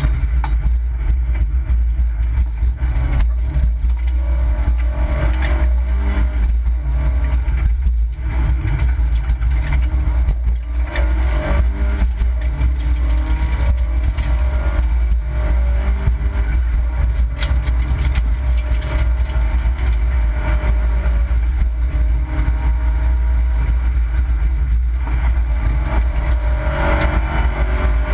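Opel Corsa B rally car's engine heard from inside the cabin, driven hard, its revs climbing and dropping again and again over a heavy low rumble.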